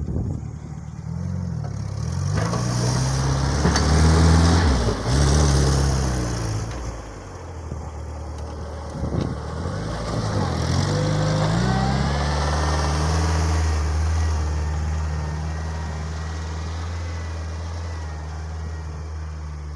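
Homemade mini-tractor's engine working while clearing snow: it revs up and down several times, dips briefly, then settles into a steady run for the last third.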